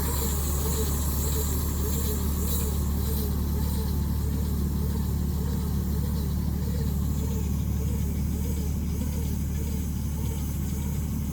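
Tractor engine running steadily at a constant speed, a low even drone, with a faint wavering whine that rises and falls about twice a second.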